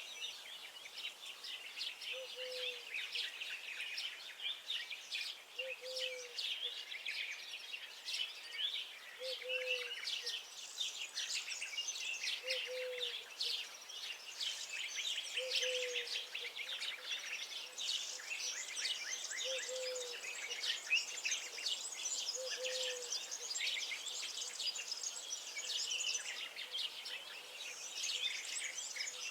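Many small songbirds chirping and singing at once in a dense, continuous chorus, with a short low note repeating about every three seconds underneath.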